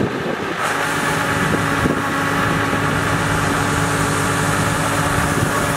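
Yanmar YH700 rice combine harvester's diesel engine running at a steady speed, a continuous drone with an unchanging pitch that comes in stronger about half a second in.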